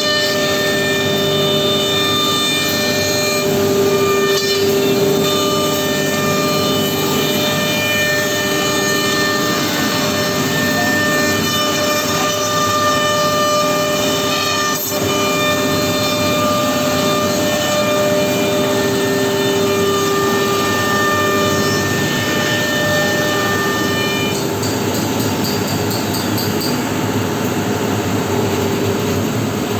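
CNC router spindle running with a steady, high-pitched whine over the noise of the bit cutting the workpiece. Near the end some of the higher overtones drop away.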